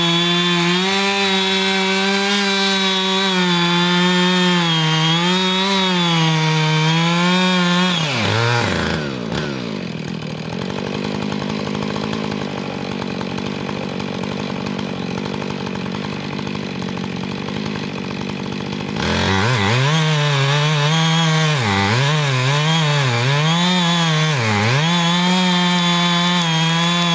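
Chainsaw cutting into a cherry tree trunk at full throttle. About eight seconds in the revs fall away to a quieter idle, and around nineteen seconds it goes back to full throttle, the pitch dipping again and again as the chain loads up in the cut.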